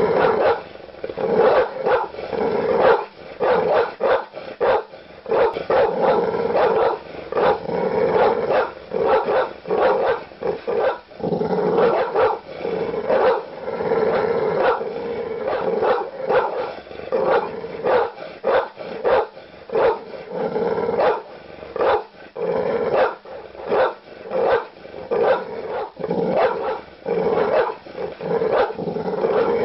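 A large dog barking aggressively and without pause, deep woofs coming several a second in a dense, ragged series.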